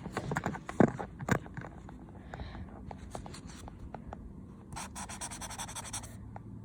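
Pen or marker tip scratching across paper, with sharp clicks and taps of handling in the first second and a denser stretch of scratching about five seconds in.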